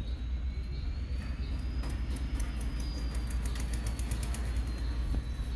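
Departing passenger train running on the track: a steady low rumble, a faint high whine that rises and then falls, and a quick run of light clicks in the middle.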